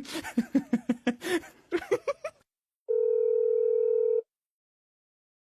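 A rapid run of short vocal sounds, then a steady electronic beep like a telephone dial tone, held for just over a second and cut off sharply.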